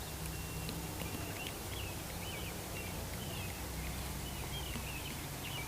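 Birds chirping in short scattered calls, over a low steady hum.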